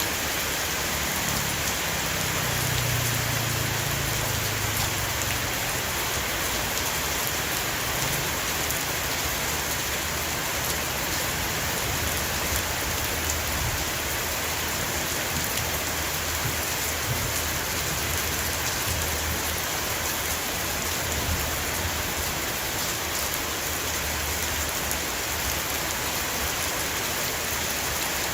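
Heavy rain shower falling on a roof: a steady, even hiss with scattered drop ticks. A low rumble swells a second or two in and fades out by about six seconds, with fainter low rumbling later on.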